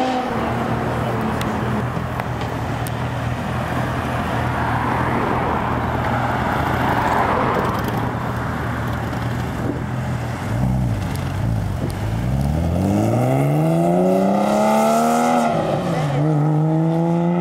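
Sports car engine running with a low steady note, then accelerating hard as the car pulls away: the pitch climbs for about five seconds, dips once at a gear change, and settles into a steady drone.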